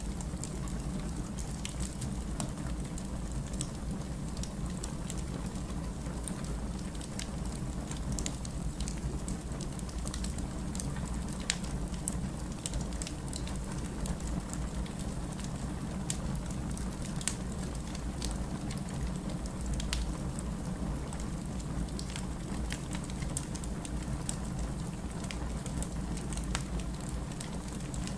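Firewood burning in a fireplace: a steady low rumble with scattered sharp crackles and pops.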